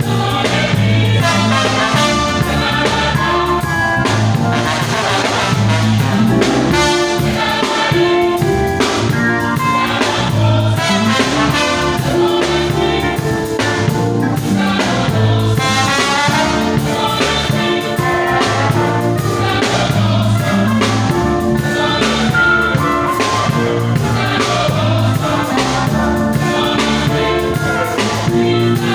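A choir singing a gospel song with instrumental backing of bass and a steady drum beat.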